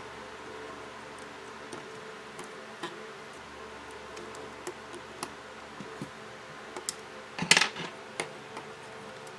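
Small repair tools clicking and scraping on the plastic and metal parts of an opened smartphone as its charge-port assembly is worked loose, with a brief louder clatter of clicks about seven and a half seconds in, over a steady background hum.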